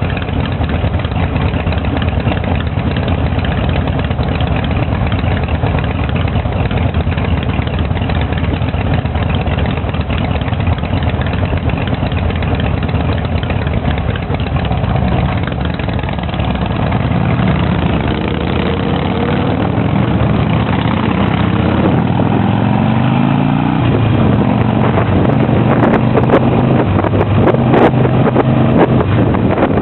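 Harley-Davidson V-twin motorcycle engines idling steadily, then from about halfway through rising and falling in pitch as they rev and pull away.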